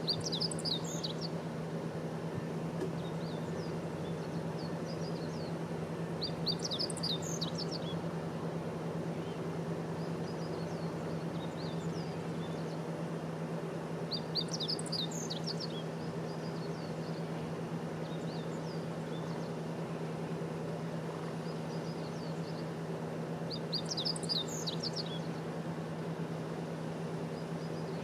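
Meadow bunting singing: four short, quick phrases of high chirping notes, one about every eight seconds. A steady low hum runs underneath.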